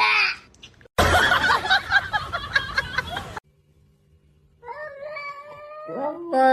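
A cat yowling and meowing in loud bursts, the longest lasting about two seconds, followed by a pause and then a steady held tone near the end.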